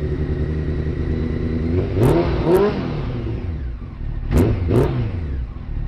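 Honda CBR900RR Fireblade's inline-four engine running at a fast idle on choke, cold and freshly revived, with all four cylinders now firing. The throttle is blipped in two quick pairs of revs, about two seconds in and again past the middle, each rev rising and dropping back to idle.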